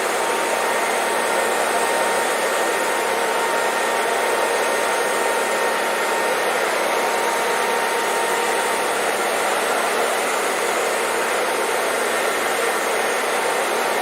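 Hair dryer blowing steadily: an even, unbroken rush of air with a faint motor whine running through it.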